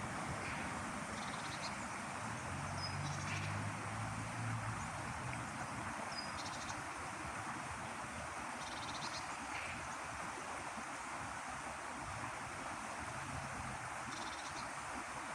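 Outdoor natural ambience: a steady rushing noise, with short high chirps repeating every few seconds. A faint low hum comes and goes twice.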